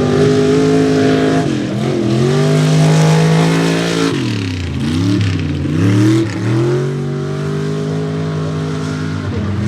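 Mega mud truck engine running at high revs under load. Its pitch dips and climbs back once about two seconds in, then falls and rises again several times in the middle before holding steady.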